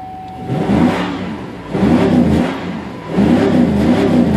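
1997 Cadillac Seville SLS's 4.6-litre Northstar DOHC V8 revved three times from idle, each rev rising and then falling back.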